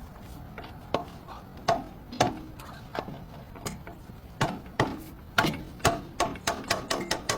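A series of sharp knocks, as from a tool striking a part during axle work: spaced single strikes at first, then coming faster, several a second, from about four seconds in.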